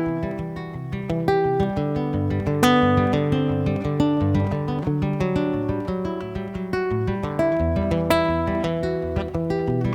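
Acoustic guitar playing an instrumental passage of a song live, strummed chords mixed with picked notes, with no singing.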